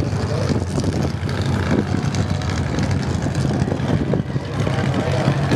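Twin-turbo Ford BA Falcon XR8's 5.4-litre V8 running steadily with a constant low drone.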